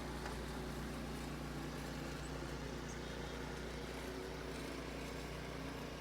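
Steady low background hum, even throughout, with no distinct events.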